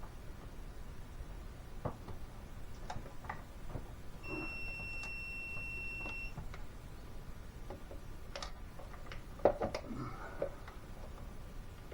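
Scattered light clicks and taps of tools and plastic parts being handled, with a steady high beep lasting about two seconds in the middle and a cluster of louder knocks near the end.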